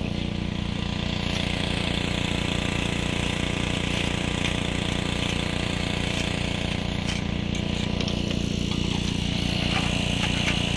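Small petrol engine running steadily at constant speed with a fast, even pulse, the motor that drives the pump for the Gold Hog excavator and sluice.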